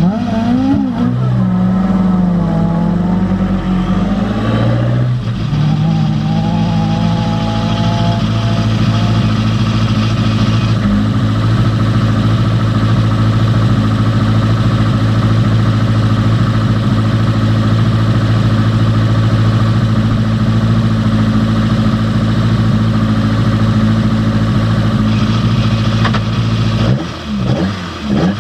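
Opel Kadett C Coupé rally car engine, revved up and down for a few seconds, then held at a steady drone for most of the rest.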